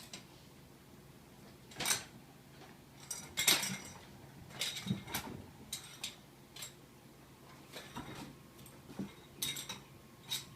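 Kittens batting loose plastic flatware and an empty paper takeout sack around: irregular light plastic clatters and rustles, the loudest about two, three and a half, five and nine and a half seconds in.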